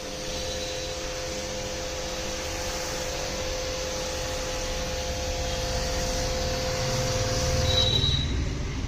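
A machine running with a steady hum and a held mid-pitched tone over a low rumble, which stops about eight seconds in.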